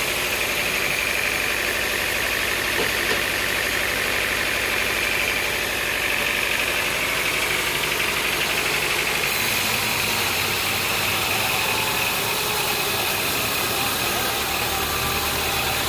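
Sawmill machinery running steadily: a continuous engine-like drone with a high whine above it.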